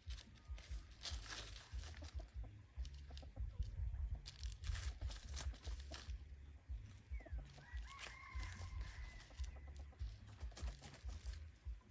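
Hybrid junglefowl decoy rooster clucking in short sharp notes, with a drawn-out call about seven to eight seconds in, over a low rumble of wind on the microphone.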